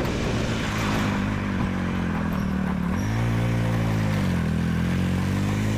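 Vehicle engine running under load on an uphill drive, its pitch rising about three seconds in and dropping back about a second later.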